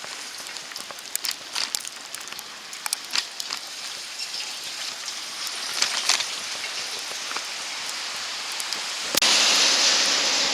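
Wet snow or sleet falling, a steady hiss with many scattered ticks of flakes or drops striking close by. About nine seconds in, a louder rush of noise starts suddenly.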